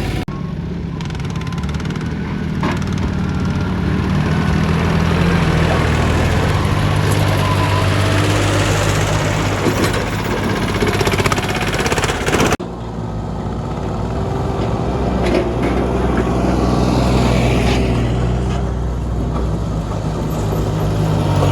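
Compact tractor's diesel engine running steadily, its pitch rising and falling a little as it works. The sound breaks off abruptly a little over halfway through and picks up again at a slightly different pitch.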